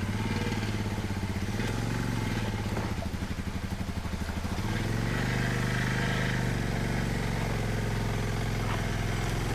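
Dual-sport motorcycle engine running at low revs. The engine note sags a couple of seconds in, then picks up about five seconds in and holds steady.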